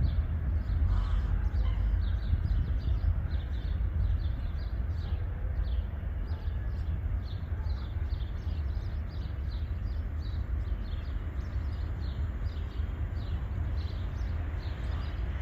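Small birds chirping over and over, short high notes several times a second, over a steady low rumble.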